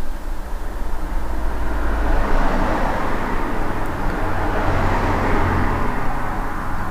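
A car passing on the street outside, heard from inside the building: a rushing of tyres and engine that swells from about two seconds in, is loudest near five seconds, and eases off toward the end.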